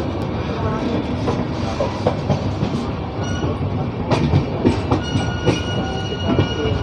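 Inside a sleeper-class coach of the Capital Express (13246), the train running at speed: a steady rumble with wheels clattering over rail joints and the coach knocking and rattling. A thin high tone joins about five seconds in.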